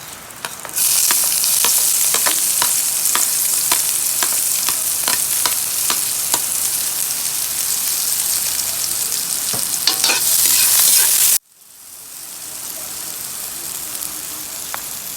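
Onion and garlic frying in hot oil. A loud sizzle breaks out about a second in, with frequent clicks of a spatula stirring in the pan. The sizzle cuts off suddenly about three-quarters of the way through, then comes back quieter and slowly builds.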